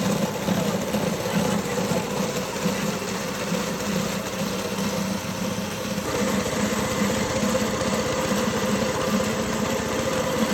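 An engine running steadily, with a slight even pulsing.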